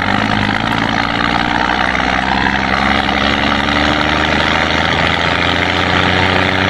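An engine running steadily at a constant speed, with a low hum and a noisy hiss above it.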